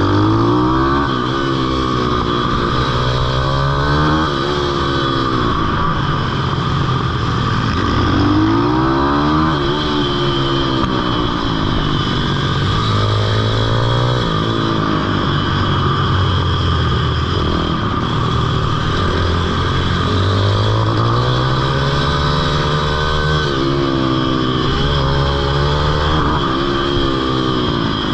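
Pitbike's small single-cylinder engine being ridden hard, its pitch climbing and falling about six times as the throttle is opened and rolled off again, over and over.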